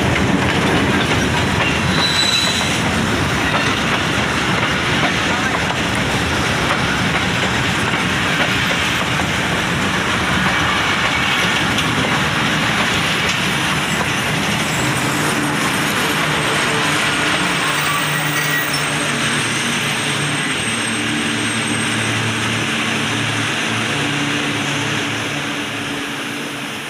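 Pakistan Railways passenger train (the Hazara Express) rolling into a station, a steady rush of wheel-and-rail noise. A low steady hum comes in about halfway, and the noise dies down near the end as the train comes to a stop.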